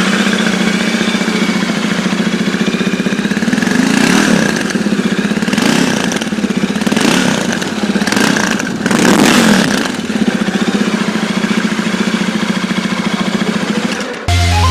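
Royal Enfield Interceptor 650's parallel-twin engine idling through its exhaust, with several quick throttle blips in the middle, then shut off near the end.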